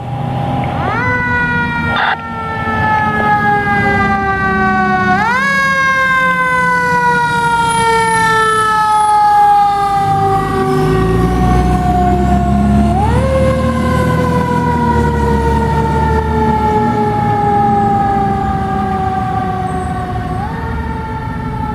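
Fire truck siren wailing: the pitch shoots up quickly four times and each time winds down slowly over several seconds. Under it is the low rumble of the truck's engine, which swells for a few seconds around the middle as the truck goes by.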